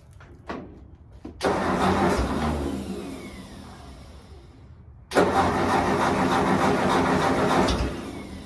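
Old tractor, "old Betsy", being cranked to start in two tries after a click or two: the first try begins about a second and a half in and fades away over several seconds, and the second, about five seconds in, runs for nearly three seconds before it cuts off.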